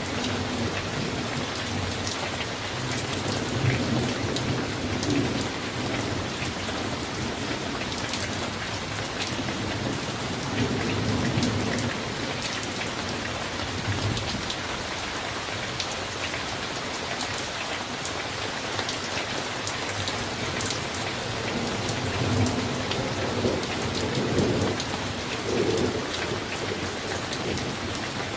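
Summer thunderstorm: steady rain falling, with sharp individual drips, and low thunder rumbling in spells a few seconds in, around ten seconds in, and for longer near the end.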